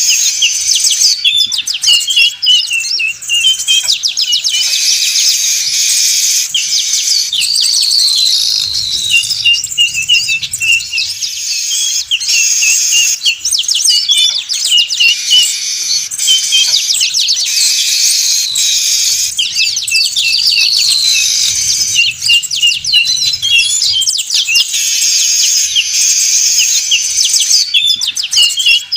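A dense, busy chatter of weaver birds (manyar), many rapid chirps and twitters overlapping without a break. It is a looped lure-call recording used to draw wild weavers in for trapping, and the same stretch of calls repeats about every 13 to 14 seconds.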